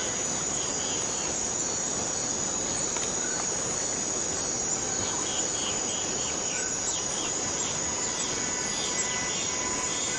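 Forest cicadas droning in a steady, unbroken high-pitched chorus, with faint short chirps over it several times.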